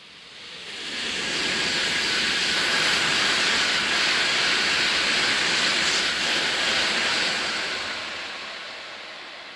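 Tokaido Shinkansen high-speed train passing at speed: a rushing roar of air and wheels that swells over about a second, holds steady for about six seconds, then fades away.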